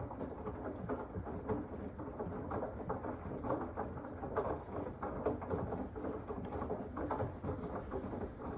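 Samsung WW25B6900AW front-load washer running with a dense, irregular rattling, gurgling noise over a low steady rumble. This is the abnormal noise the owner complains of in a washer only five months old.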